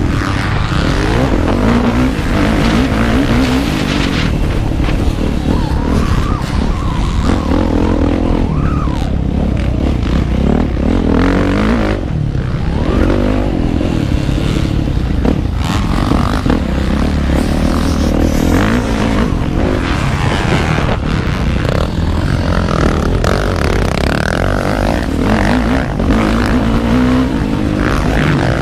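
Motocross motorcycle engine revving up and down as the bike is ridden hard, over a heavy low rumble.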